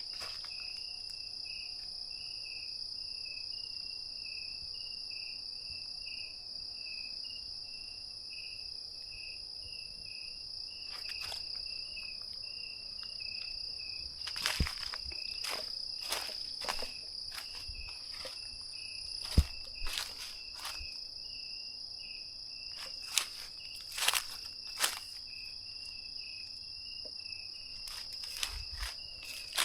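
Night insects chirring in the forest: a steady high-pitched drone with a rapidly pulsing chirp beneath it. From about a third of the way in come scattered sharp clicks and rustles.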